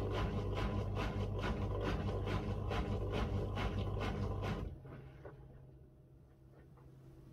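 Miele W1 front-loading washing machine running, its motor humming and the drum turning with a regular swish about four times a second; the drum stops suddenly about four and a half seconds in, leaving a faint steady hum and a few light ticks.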